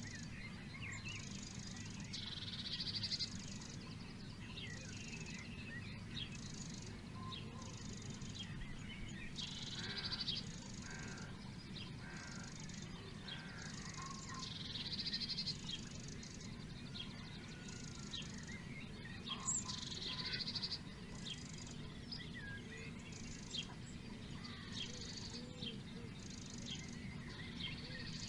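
Wild birds singing: four louder song phrases come about five seconds apart, among scattered short chirps. Behind them runs a high pulsing chirr, repeating about once a second, over a steady low rumble.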